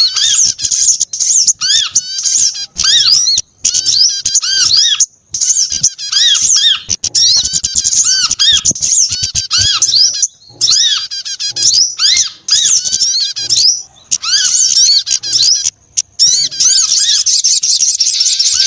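Bird-lure recording of mixed small songbird calls: loud, dense, rapid high-pitched chirping and twittering from several species layered together, with only a couple of brief pauses.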